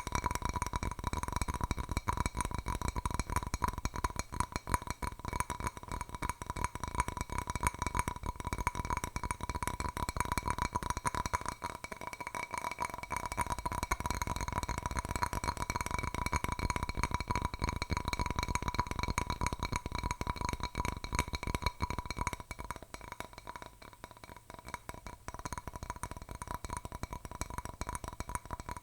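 Fingernails tapping very fast and continuously on a hard object, with a steady ringing note underneath; the tapping softens near the end.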